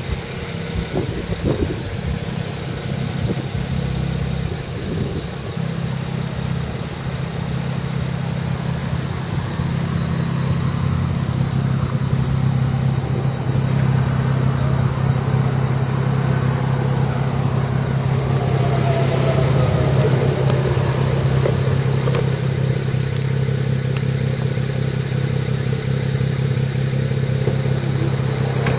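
BMW 335i's turbocharged straight-six idling steadily through the stock exhaust, a low even exhaust note.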